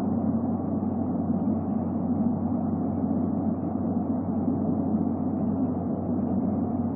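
Steady rushing background noise with a constant low hum, with no distinct calls or knocks.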